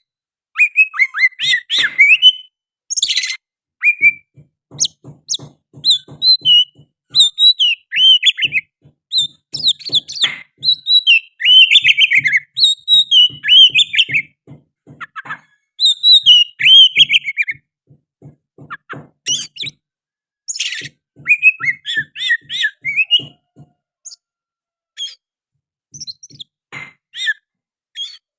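Oriental magpie-robin singing loudly in varied phrases of sharp whistles and fast chirps, broken by short pauses.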